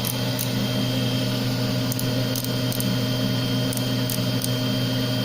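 Small GD-01 CNC cylindrical grinder running steadily: a constant motor hum with a steady whine over it. A few light, short high ticks are scattered through.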